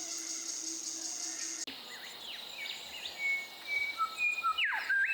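A steady high insect trill, then, after a sudden change about a second and a half in, clear whistled bird calls: falling slurred notes, held level whistles at a few pitches and a quick rising sweep near the end.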